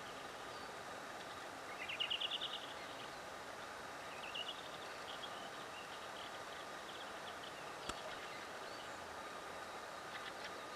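A small songbird sings a rapid trill of quick repeated notes about two seconds in, then softer chirps, over steady outdoor background noise. A single sharp click sounds near eight seconds.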